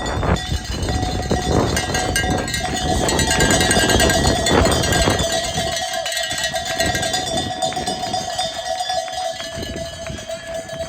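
Many cowbells rung by roadside cycling spectators, a continuous dense jangle mixed with crowd noise, loudest in the first half and easing after about five seconds.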